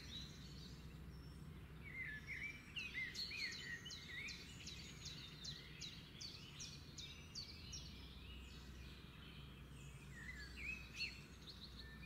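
Faint songbird chirping: many short, quick, sweeping calls in a run, over a low steady background hum of outdoor noise.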